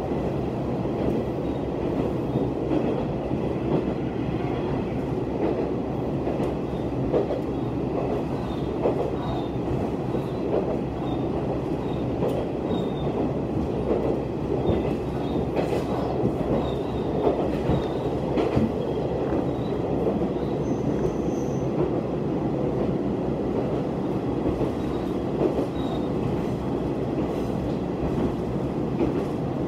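Heisei Chikuho Railway diesel railcar heard from inside the carriage, running at speed: a steady rumble of engine and wheels on the rails, with scattered clicks over the rail joints and a faint, high wheel squeal now and then.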